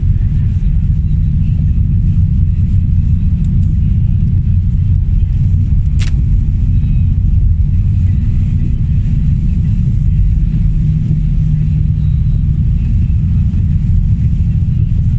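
Car driving, heard from inside the cabin: a steady low rumble of engine and road noise, with a single sharp click about six seconds in.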